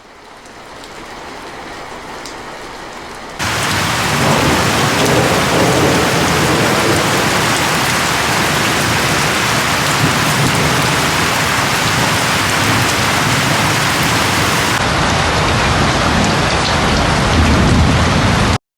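Rain fades in softly, then about three seconds in jumps suddenly to a loud, heavy downpour with a low rumble beneath it, which cuts off abruptly near the end.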